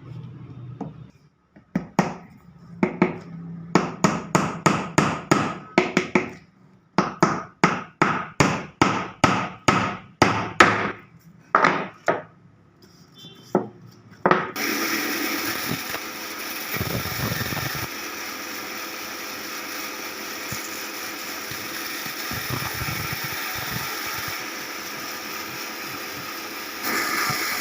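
A hammer knocking on wood, about two blows a second in two runs, some twenty blows in all. A little after halfway a steady machine noise starts abruptly and keeps going.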